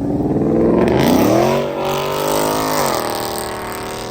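Kia Stinger pulling away under hard acceleration, its engine note climbing for about two seconds. About three seconds in the pitch drops sharply as the throttle is lifted, and the engine fades as the car moves off.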